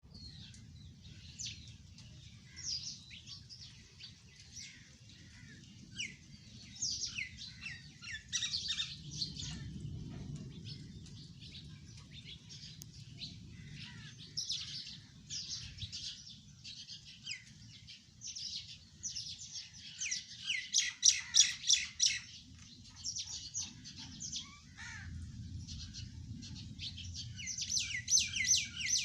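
Skylark nestlings chirping in quick, high-pitched series throughout, with loud rapid bursts of chirps about two-thirds of the way through and again near the end.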